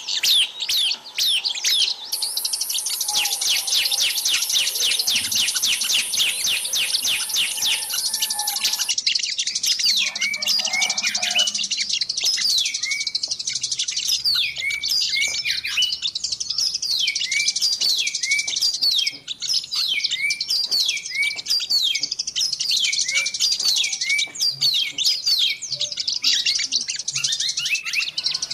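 Dense chorus of many small birds chirping and calling over one another, the kind of mixed-species recording played as a lure for trapping small wild birds. A high, continuous buzzing trill runs through the first third, then a short hooked note repeats over and over beneath the rapid chirping.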